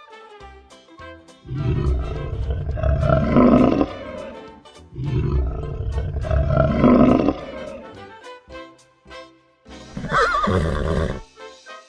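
A large animal calling twice in long, loud, rough calls of about two and a half seconds each, then a shorter call with a wavering pitch near the end, over light background music with plucked notes.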